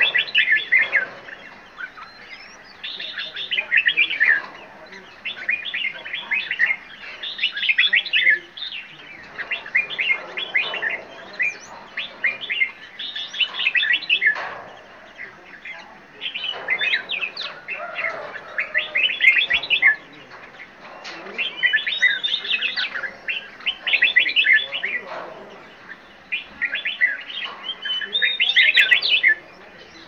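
Birds chirping and singing in quick high-pitched trills. Each phrase lasts a second or two and they repeat throughout with short gaps.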